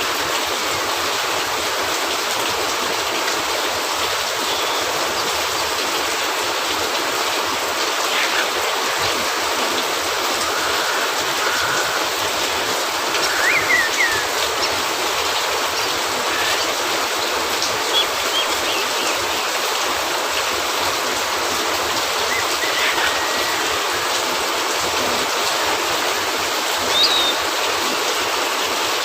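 Steady heavy rain, an even hiss, with a few brief pops and short squeaks over it, the loudest about halfway through and near the end.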